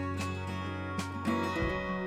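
Background music led by a strummed acoustic guitar, with chord strokes about once a second over steady low notes.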